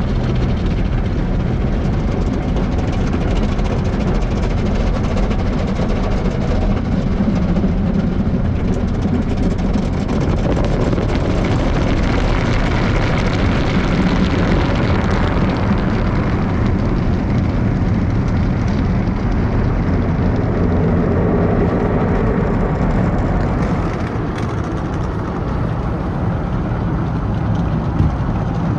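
An automatic tunnel car wash's equipment running around the car, a loud, steady rushing roar. It eases slightly about 24 seconds in.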